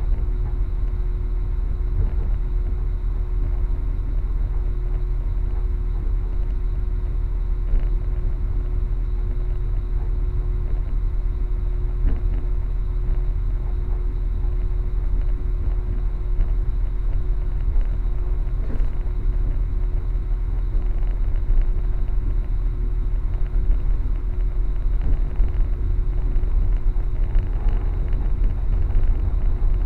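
Passenger train running at speed, heard from inside the carriage: a steady low rumble with a constant hum over it.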